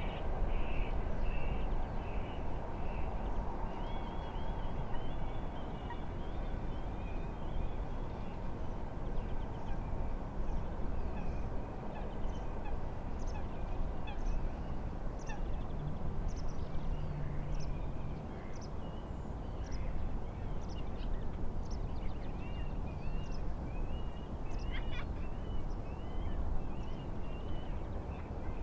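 Birds calling and singing in series of short chirps and warbles over a steady rush of wind and waves on the lake.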